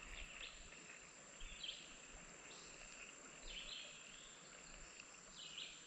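Faint outdoor ambience, close to silence: a soft steady hiss with small high chirps about every two seconds.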